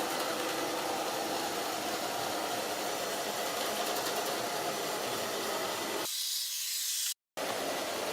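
Ilife V5s Pro robot vacuum running: the steady mechanical hiss of its suction motor and brushes. About six seconds in the sound changes abruptly, losing its lower part, and it cuts out completely for a moment just after seven seconds.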